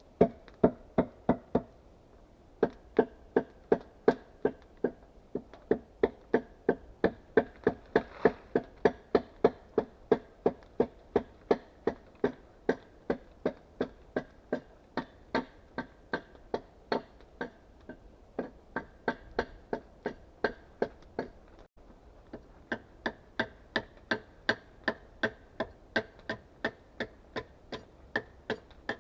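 Wood being struck over and over with a hand tool, steady sharp blows at about two to three a second, with a short pause about two seconds in.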